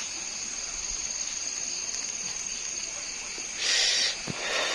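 Night insects trilling in a steady, high-pitched drone, with a brief hissing burst about three and a half seconds in.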